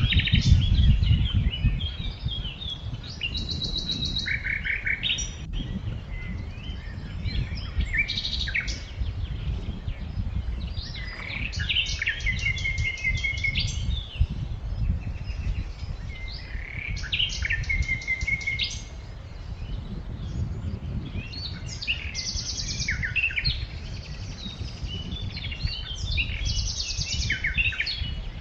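Several songbirds chirping and singing, with repeated rapid trills, over a steady low rumble.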